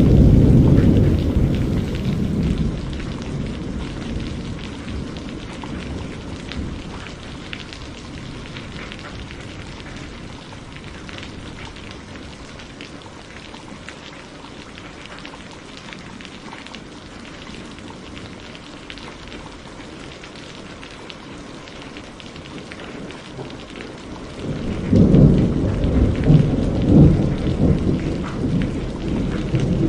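Steady rain falling, with rolls of thunder. A loud low rumble fades away over the first few seconds, and a second rolling peal with several swells starts near the end.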